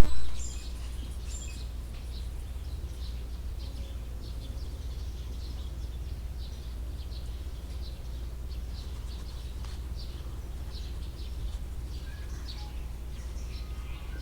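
Small birds chirping: many short, high chirps throughout, over a steady low rumble. A brief loud pop at the very start.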